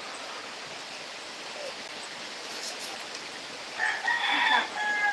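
A rooster crowing, a loud pitched call starting about four seconds in, over a steady hiss of falling rain.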